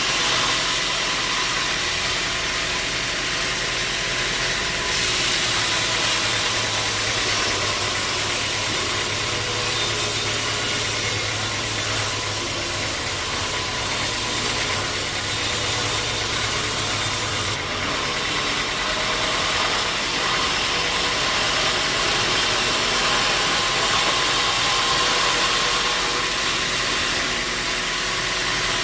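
Sawmill machinery running steadily: a motor hum with a loud, even hiss over it. The hiss grows brighter about five seconds in and drops back at about eighteen seconds.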